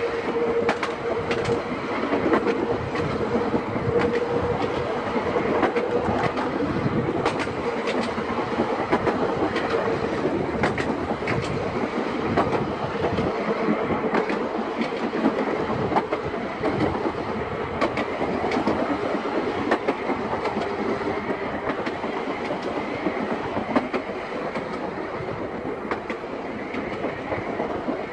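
Seaton Tramway electric tram running along its narrow-gauge track: a continuous rumble of wheels on rail with frequent clicks over the rail joints. A steady hum sounds through the first half and fades away.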